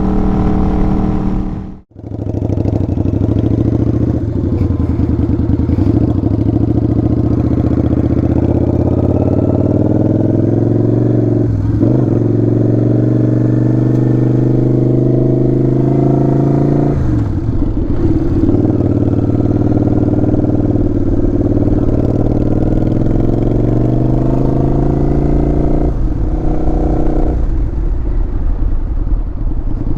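Motorcycle engine accelerating through the gears: the engine note rises steadily, then drops at each upshift, about three times. The sound cuts out for a moment about two seconds in.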